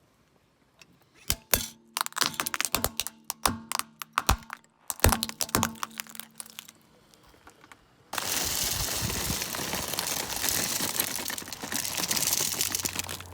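Hollow plastic masks crackling and snapping in a long run of sharp cracks, each with a brief ringing tone. From about eight seconds in, a steady loud rushing noise takes over.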